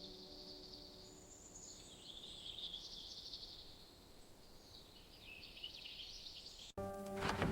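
Small birds chirping and twittering in a high-pitched chorus, over the last of a soft piano piece fading out in the first second. Near the end the birdsong cuts off abruptly and louder music with a hissing, rain-like noise begins.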